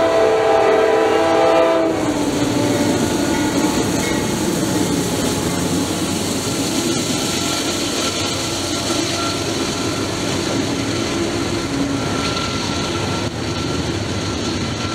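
Norfolk Southern diesel locomotive horn sounding a chord that cuts off about two seconds in. After it comes the steady rumble and clatter of double-stack container cars passing close by on the rails.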